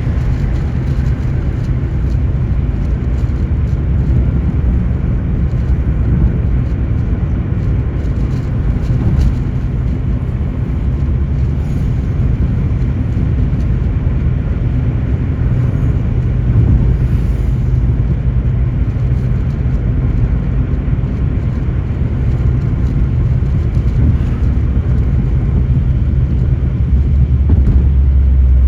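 Car driving along at a steady pace: a continuous low rumble of engine and road noise, swelling slightly near the end.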